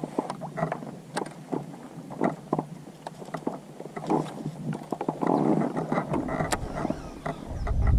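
Irregular clicks and knocks of gear against a kayak's hull on the water. A low wind rumble on the microphone builds up over the last two seconds.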